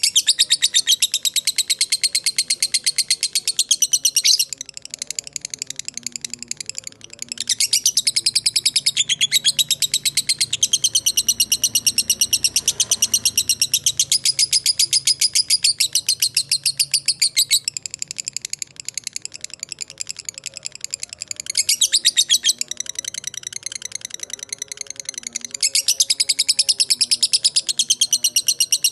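Lovebird ngekek panjang: long runs of very rapid, high chattering notes, each run lasting several seconds, breaking off for a few seconds about four seconds in and again around eighteen seconds in.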